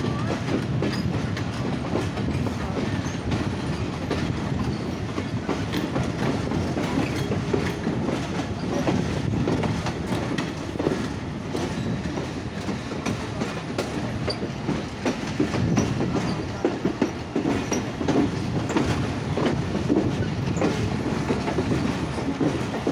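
Passenger train rolling out of a station, heard from an open coach door: a steady rumble of the carriages with the wheels clicking over rail joints. The clatter grows louder and more frequent in the last several seconds as the coach runs over points and crossings.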